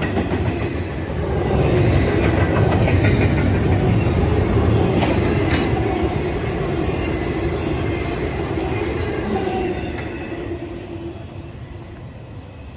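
A train rolling past on the rails, its wheels rumbling and clicking, fading away near the end.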